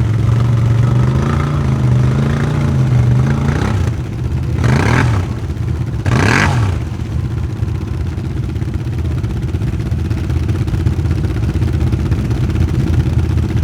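4x4 ATV engines running in a mud race: an engine note rising and falling with the throttle for the first few seconds, two short loud rushing bursts about five and six seconds in, then a steady low engine rumble.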